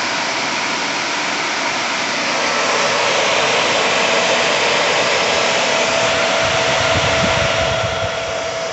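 Electric motor of an EBG20C Square Scrub orbital floor scrubber running steadily with a whine, its top end freshly fitted with a new bearing and thrust washer. It runs very smooth.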